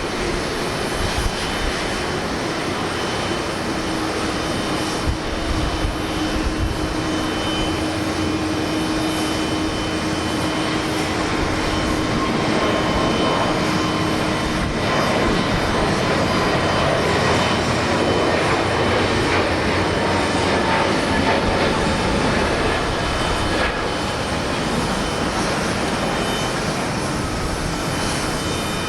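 Jet airliner engines at takeoff power: a steady, dense noise with faint whining tones running through it.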